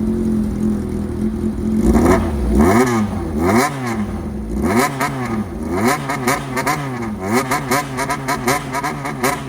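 Honda CBX400F inline-four running through a straight-piped 4-2-1 exhaust, idling and then blipped in a low-rpm call: about two seconds in the revs start to swell and fall, a few slow rev-ups at first, then quicker rhythmic throttle blips, about two to three a second.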